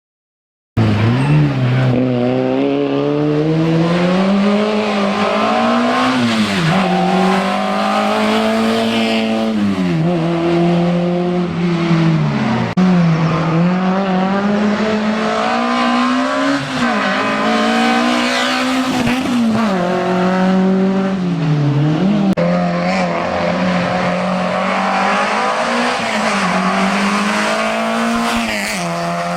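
Competition car's engine on a slalom course, revving up and dropping back over and over as it accelerates and slows through the course, starting abruptly about a second in.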